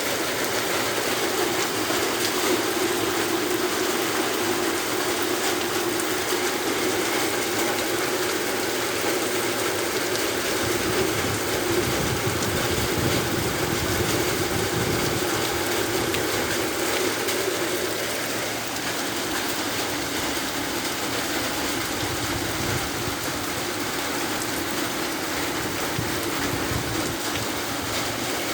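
Rain falling steadily, an even hiss that eases slightly about two-thirds of the way through.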